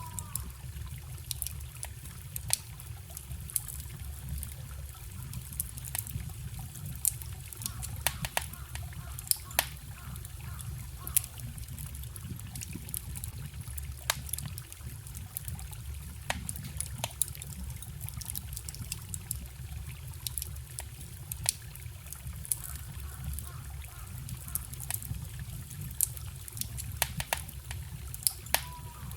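Wood fire crackling, with irregular sharp pops, over the steady trickle and low babble of a forest stream.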